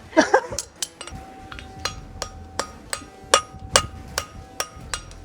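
Farrier's hammer striking a steel eggbar shoe on the anvil, about three blows a second, each blow ringing. A brief voice sounds at the very start.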